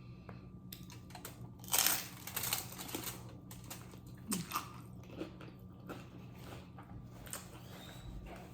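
Close-miked eating of crunchy chips: a loud crunching bite about two seconds in, then chewing with smaller crunches.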